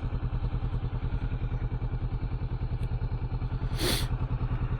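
Kawasaki Vulcan 650's parallel-twin engine running steadily at idle with an even pulse. A short hiss cuts in briefly a little under four seconds in.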